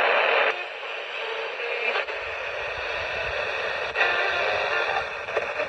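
Radio static hiss, cut off below and above like a small speaker's sound, loud at first and dropping sharply about half a second in, with faint broken tones under it; it grows louder again about four seconds in.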